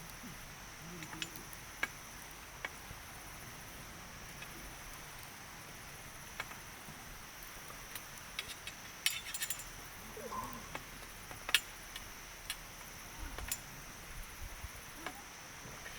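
Wood fire crackling, with irregular sharp snaps and pops scattered through, a cluster of them about nine seconds in and the loudest snap near the twelfth second, over a steady high-pitched background hum.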